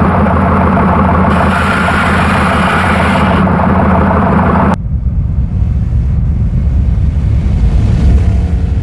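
Fuel-injected 383 stroker V8 running steadily. About halfway through the sound cuts abruptly to a deeper, duller rumble with little high end.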